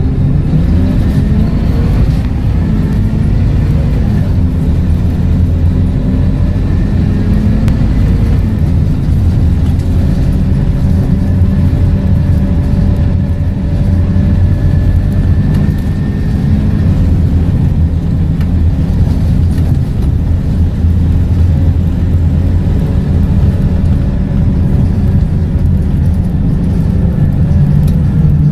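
Scania K230UB bus's diesel engine with ZF automatic gearbox running under way, a steady low drone. Faint whines rise in pitch in the first couple of seconds as it picks up speed.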